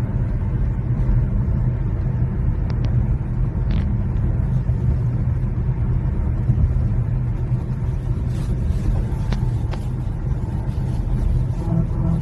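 Steady low rumble of road and engine noise from a Genesis GV80 with the 3.0 inline-six turbodiesel and all-wheel drive cruising at a constant 100 km/h, with a few faint ticks.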